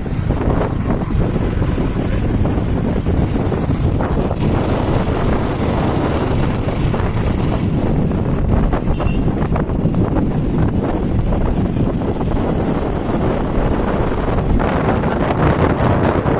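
Steady wind noise buffeting the microphone over the low rumble of a moving motorcycle.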